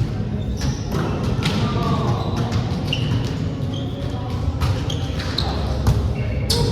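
Indoor volleyball play: sharp thuds of the ball being hit and bouncing on the court, short high sneaker squeaks on the floor, and players' voices.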